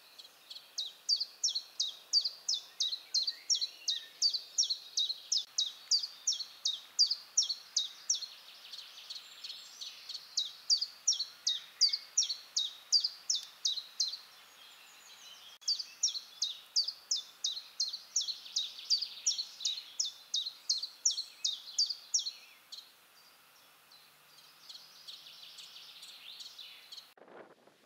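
A small songbird singing: short, high notes repeated about three a second in three long runs, with short pauses between them.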